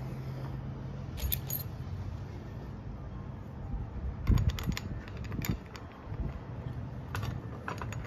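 Metal washers and parts clinking and jingling on a threaded steel axle rod in a few short clusters while a kayak cart wheel is fitted, over a steady low hum.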